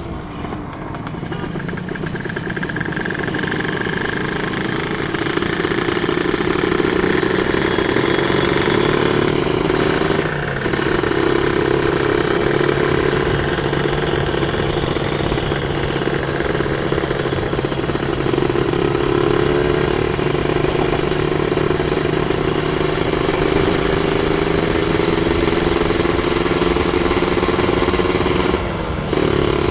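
Single-cylinder two-stroke Kawasaki 150 cc motorcycle engine running under way, its note rising and falling slowly with the throttle. The sound drops out briefly about ten seconds in and again near the end.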